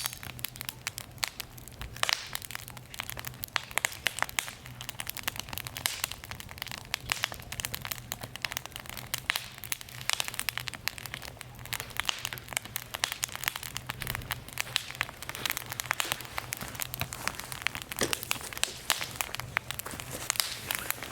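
Wood fire crackling in a small fire pit: dense, irregular pops and snaps all the way through.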